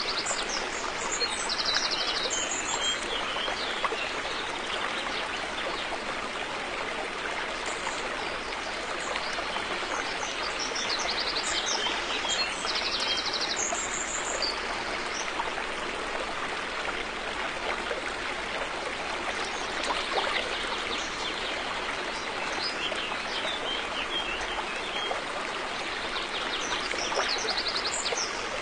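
River water flowing steadily. Birds chirp briefly a few times over it, with short high trills near the start, around the middle and near the end.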